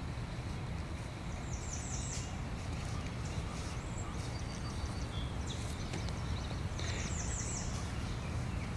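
Outdoor ambience: a steady low rumble, with a bird singing a quick run of high, falling notes about two seconds in and again about seven seconds in.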